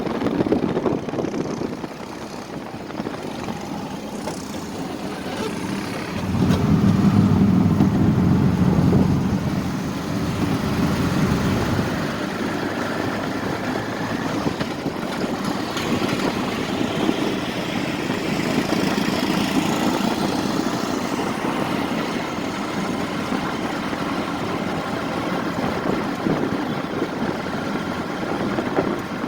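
Road traffic: vehicle engines running, with one louder engine close by from about six to twelve seconds in.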